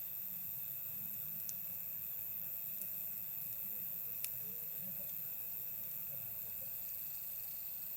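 Campfire burning with a steady hiss and a few sharp crackling pops, the loudest about four seconds in, over a continuous chirring of night insects.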